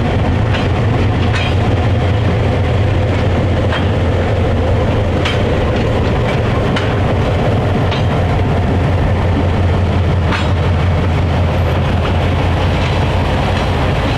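Diesel locomotive engine running steadily with a deep hum as a train rolls by, with scattered sharp clicks from the wheels and rails.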